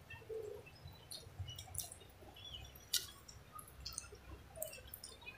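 Close-miked eating sounds: soft chewing of a mouthful of rice and fish, with small mouth clicks and wet smacks scattered throughout and one sharper click about three seconds in.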